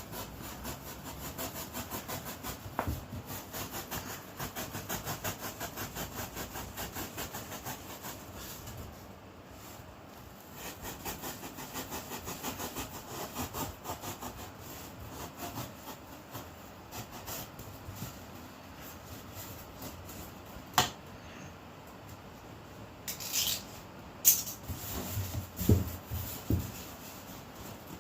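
A blade sawing back and forth through the top of an ice box cooler to cut a hole for a fan, in fast even strokes that pause about nine seconds in, resume, and stop after about sixteen seconds. A few sharp knocks and clatters follow near the end.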